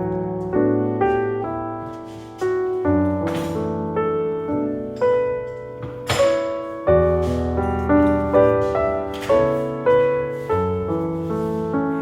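Background piano music, notes struck in a steady rhythm, each one fading before the next.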